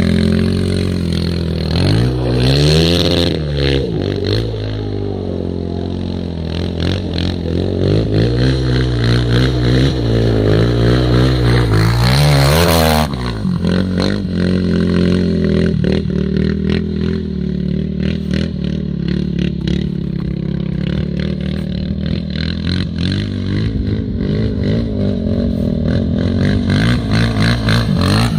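Suzuki LTR450 quad's single-cylinder four-stroke engine through an FMF exhaust, revving up and down several times, dropping abruptly to a lower, steadier speed about halfway through, then picking up again near the end.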